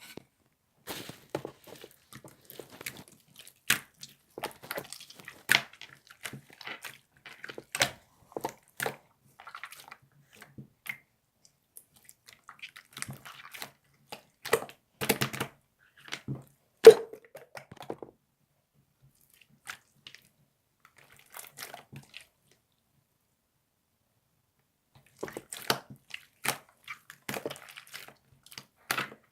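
Irregular close-up crackling, clicking and crunching noises in clusters, with one louder knock past the middle and a quiet stretch of several seconds before the clicks resume.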